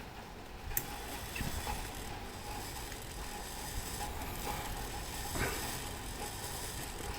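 Small metal clock parts clicking and knocking as they are handled: a sharp click near the start, then a few softer knocks spread out.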